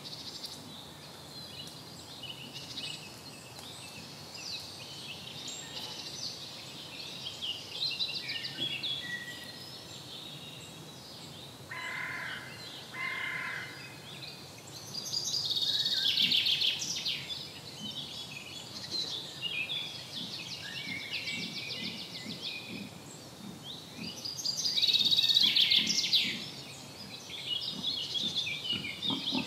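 Songbirds singing, several overlapping songs, loudest about halfway through and again near the end, with two short lower calls about twelve seconds in.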